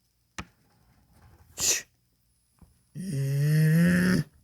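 A person's loud, drawn-out vocal cry lasting over a second, its pitch dipping then holding, preceded by a sharp click and a short breathy hiss.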